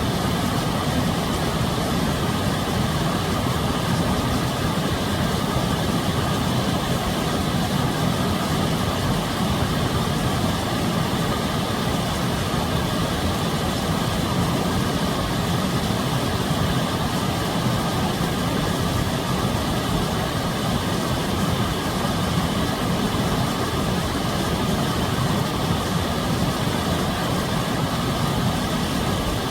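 Steady, unchanging low rumble of a running vehicle or engine.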